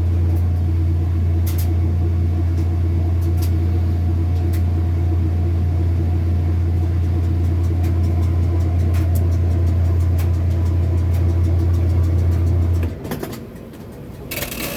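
Kenmore washing machine's motor running with a loud, steady low hum and a few faint clicks, stopping abruptly about 13 seconds in.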